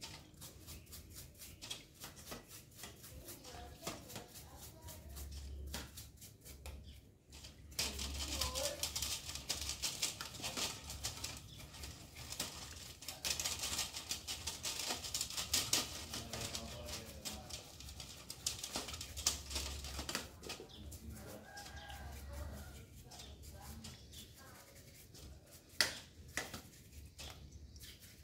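Bicycle parts and tools being handled: a string of clicks and knocks, with a stretch of quick rubbing or brushing from about 8 to 16 seconds in.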